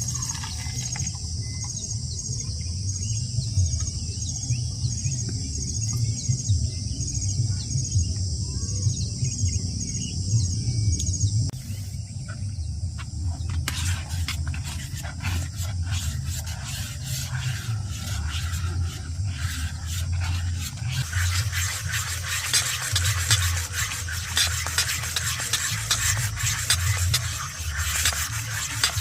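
Insects chirping in a high, evenly pulsing trill for the first dozen seconds over a low rumble, then scraping and clicking, giving way about two-thirds of the way in to a steady high hiss.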